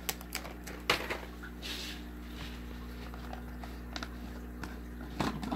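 Scattered light clicks and taps from fish food and its container being handled during an aquarium feeding, over a steady low hum.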